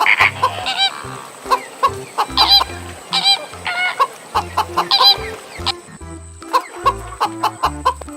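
Chickens clucking in short repeated calls over background music with a stepping bass line.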